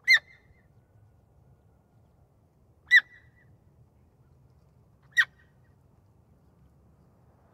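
Three short, high-pitched animal calls, each a sharp downward squeak, about two to three seconds apart, over a faint low background hum.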